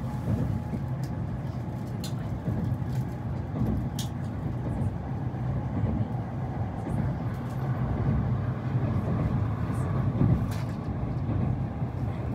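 Shinkansen bullet train running, a steady low rumble heard inside the carriage, with a few faint clicks.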